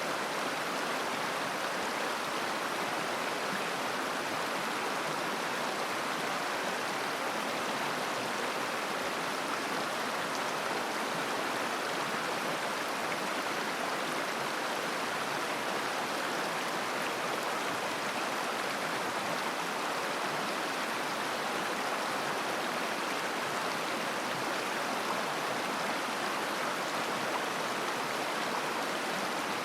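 Mountain river water flowing and babbling over stones, a steady rushing noise with no change.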